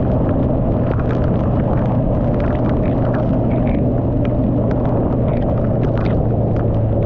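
Motorcycle riding through a storm: heavy wind rumble buffeting the microphone over a steady engine hum, with frequent sharp ticks of rain striking the camera.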